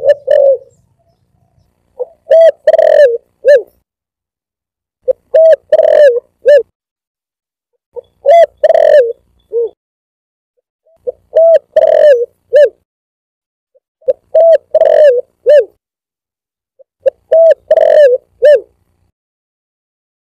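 Spotted dove (tekukur) cooing in repeated phrases about every three seconds. Each phrase is a quick run of coos ending in a short separate note. It is a recorded lure call used to draw in wild doves.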